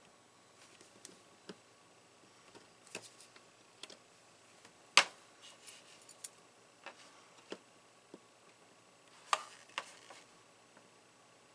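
Scattered light clicks and taps of small hand tools handled during soldering work, with one sharp click about five seconds in and a quick cluster of clicks a little after nine seconds.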